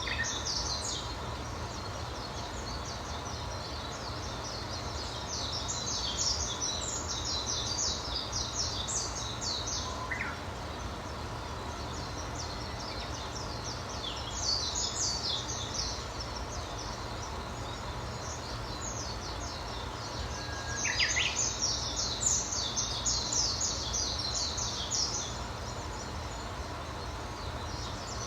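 Small songbirds singing and chattering in rapid, high-pitched bouts a few seconds long, with a couple of short rising whistled notes between them, over a steady low background rumble.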